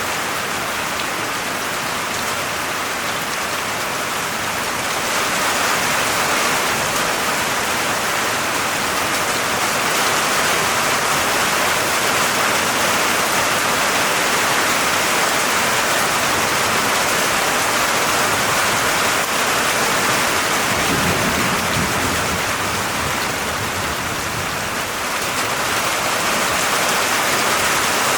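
Steady rain falling, an even, dense hiss that grows a little louder about five seconds in.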